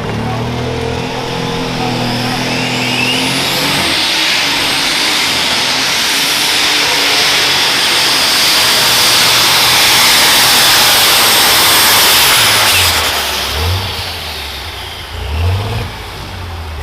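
John Deere unlimited super stock pulling tractor engine winding up at launch, then running flat out under load with a high turbo whine that climbs and holds for about nine seconds. About thirteen seconds in, the throttle comes off and the engine drops to a lower, uneven rumble.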